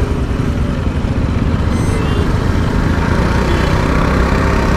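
Motorcycle engine running steadily while riding in city traffic, with heavy low rumble from wind on the microphone. A brief high-pitched tone sounds about two seconds in.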